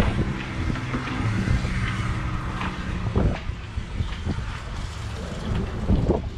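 A boat engine running steadily under a dense, gusty wind rumble on the microphone, with a few short knocks or bumps.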